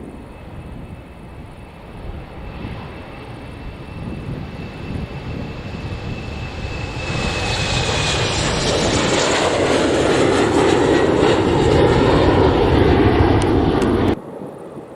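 Boeing 777-200ER twin jet engines at takeoff thrust, a broad roar growing steadily louder with a faint high whine dipping slightly in pitch, then cutting off abruptly near the end.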